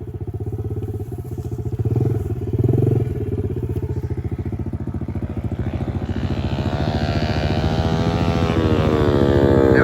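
Pit bike engines: a single-cylinder engine chugs steadily at idle close by, and from about halfway another pit bike's engine grows louder and rises in pitch as it comes nearer under throttle.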